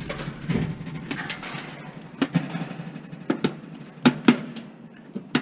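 Scattered sharp metallic clicks and knocks with rustling, from parts and wire being handled and pulled while a scrap appliance is stripped by hand. The loudest knocks come about two-thirds of the way through.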